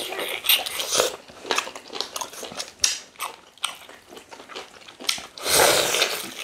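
Close-up eating sounds: biting and chewing meat with fufu and ogbono soup, as a run of irregular wet mouth clicks, with a louder noisy stretch about five and a half seconds in.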